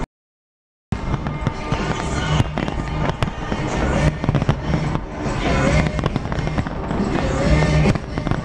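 New Year fireworks display: many fireworks bursting in quick succession with sharp bangs and crackles, mixed with loud music. The sound cuts in after about a second of complete silence.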